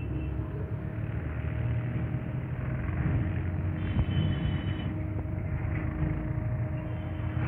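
Steady low rumble and hum of a passenger train running slowly, with a brief high-pitched squeal about four seconds in.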